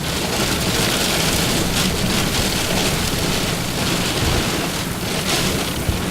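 Heavy rain falling in a thunderstorm, a steady dense hiss with a low rumble underneath.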